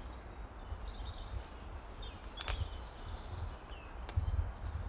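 Small birds chirping and warbling in short curling phrases, over a steady low rumble, with a couple of sharp clicks about two and a half and four seconds in.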